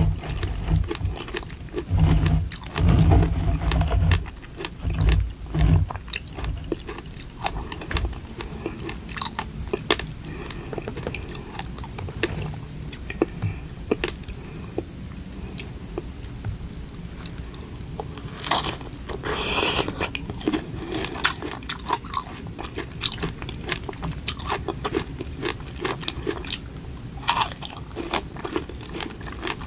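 Close-miked eating sounds: a person biting and chewing food, with many small mouth clicks and a few louder bites.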